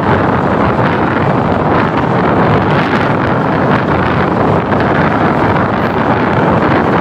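Wind buffeting the microphone over the steady running rush of a broad-gauge intercity passenger train travelling at speed, with no distinct rhythmic wheel clatter.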